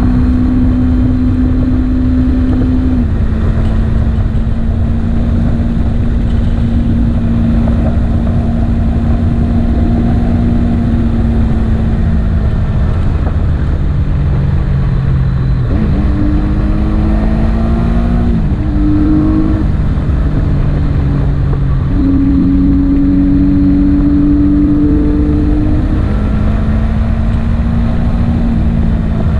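Motorcycle engine running under way over a steady low rumble. Its note holds, then drops or climbs in pitch several times as the revs change.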